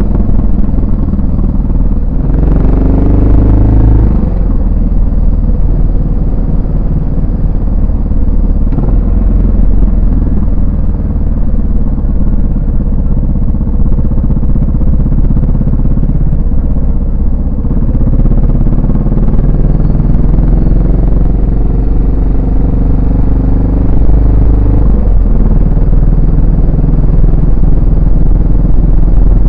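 Yamaha SR400's air-cooled single-cylinder four-stroke engine and exhaust while riding: the revs climb about two seconds in and break off as the rider shifts, then the bike cruises steadily, with further changes in engine speed later on.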